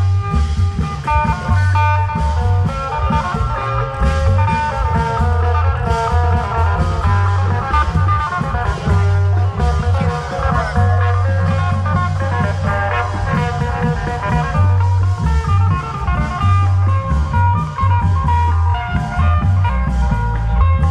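Isan klong yao (long-drum) procession band music: a continuous melodic lead line over a heavy, deep bass and steady drum strokes.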